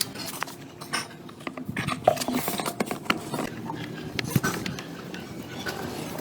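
Irregular clicks, knocks and scrapes of hands working with tools and motorcycle parts.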